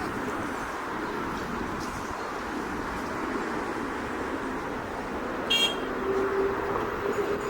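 Steady jet-engine rumble of an Airbus A330 going around, with a brief high beep about five and a half seconds in.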